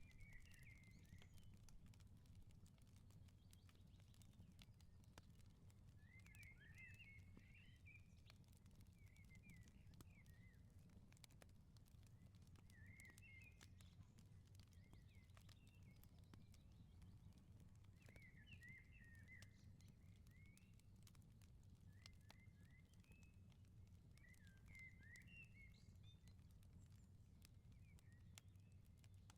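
Very faint outdoor ambience: a bird chirping in short clusters every few seconds over a low steady rumble, with faint scattered crackles from a wood fire.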